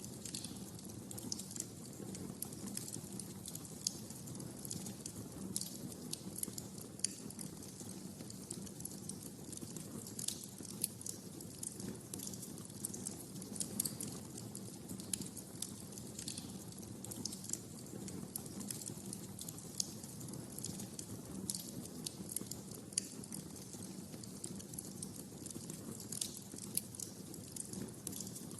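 Wood fire crackling in a fireplace: irregular sharp pops and snaps over a steady low rush of the flames.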